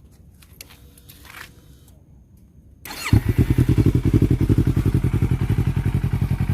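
Yamaha R3's parallel-twin engine starting about three seconds in, after a few faint clicks and a brief starter whirr, then idling steadily through a freshly fitted Akrapovic slip-on exhaust, its bass note slightly heavier.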